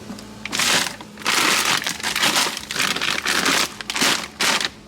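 Plastic packaging of frozen food crinkling in a series of bursts as it is handled and moved in a freezer.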